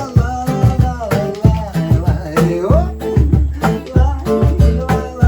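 Live band music between sung choruses: an instrumental passage with guitar, a steady beat with strong bass hits about four times a second, and a wavering melody line over it.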